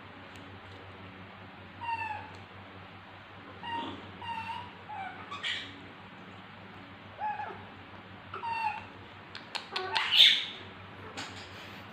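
Baby monkey giving short, high squeaking calls, about seven of them, each with a bending pitch; the loudest comes about ten seconds in, just after a few sharp clicks. A steady low hum runs underneath.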